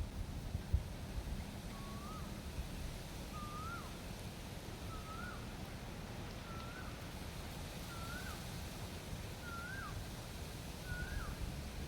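A bird calling a single short note over and over, about every second and a half to two seconds, each note rising and then dropping sharply. Under it runs a low steady rumble.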